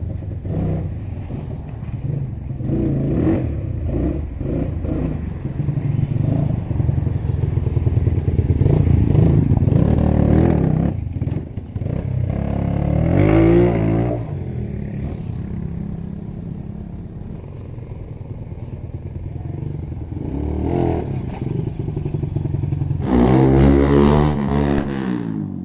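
Stock Honda Megapro motorcycle's single-cylinder engine running and revving. The pitch rises sharply about halfway through and again in a stronger rev near the end.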